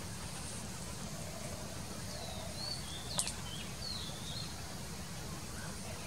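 Wild birds calling in the background: a few short whistled notes that bend up and down, between about two and four and a half seconds in. A single sharp click comes about three seconds in. A steady low rumble runs underneath.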